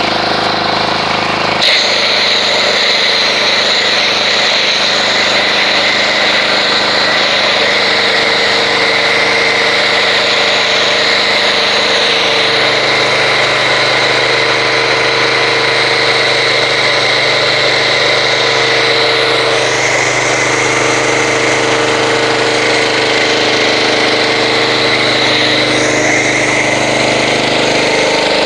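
Pressure washer running steadily, driving a foam cannon that sprays car-wash foam; a steady machine hum with a hiss on top. The sound changes abruptly and grows fuller about two seconds in.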